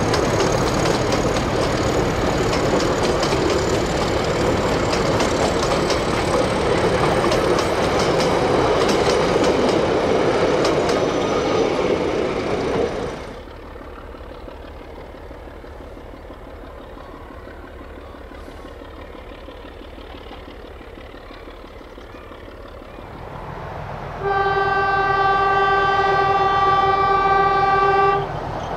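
Passenger carriages rolling close past with loud, clicking wheel-on-rail noise for about the first half. After a cut, a distant English Electric Dg-class diesel-electric locomotive's low rumble, and near the end its horn gives one steady single-note blast of about four seconds.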